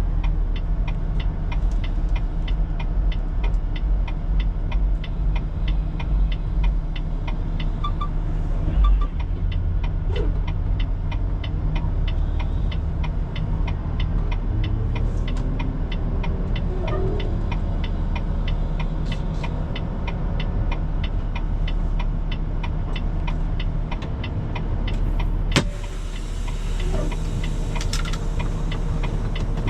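Semi truck's diesel engine running steadily at low speed, with a fast, regular ticking over it. About 25 seconds in there is a sharp click followed by a couple of seconds of hiss.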